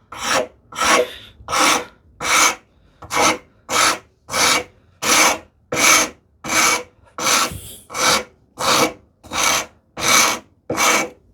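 Steady, even strokes of a hand file scraping across the edge of a wooden tambour slat, about sixteen strokes at roughly one every 0.7 seconds. It is taking off the slat's sharp corners so they will not catch as the slat slides through its curved groove.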